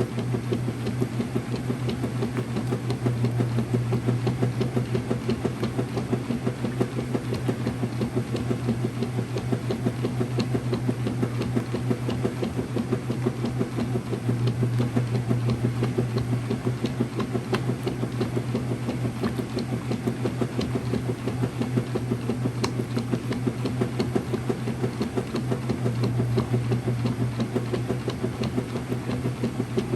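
Early-2000s Whirlpool direct drive washing machine running, with a steady electric motor hum under a fast, even pulsing churn from the drive.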